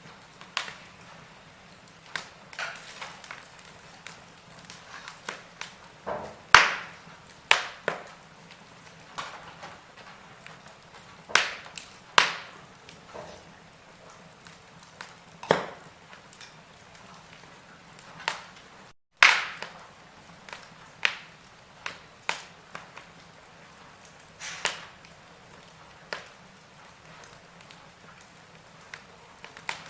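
Wood fire in a fireplace crackling, with irregular sharp pops of varying loudness over a faint steady hiss, several louder snaps in the middle stretch. The sound cuts out for a split second a little before nineteen seconds in.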